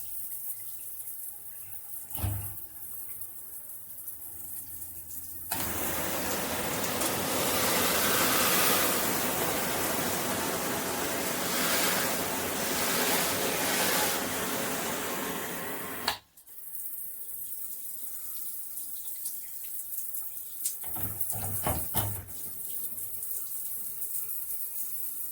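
Water running from a shower head. About five seconds in, the spray becomes much louder and fuller for about ten seconds, then drops back abruptly to a quieter flow, with a few short knocks near the end.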